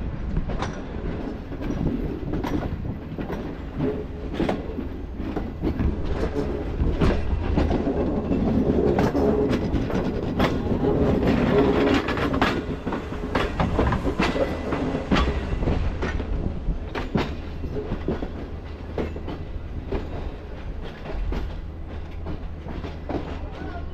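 Green Line Express passenger coaches running on the track, heard from an open coach doorway: a steady low rumble from the running gear, with irregular clicks as the wheels pass over rail joints.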